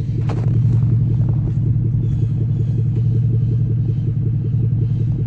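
Jaguar S-Type R's supercharged 4.2-litre V8 idling steadily while warming up.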